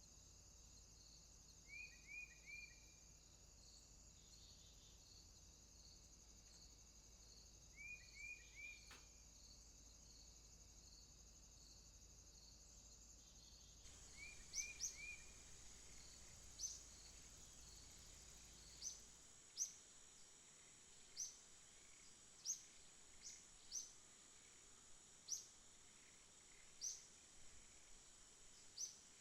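Faint night rainforest ambience: a steady high insect and cricket chorus, with short three-note chirps now and then. About halfway the chorus changes, and a sharp rising chirp repeats about once a second.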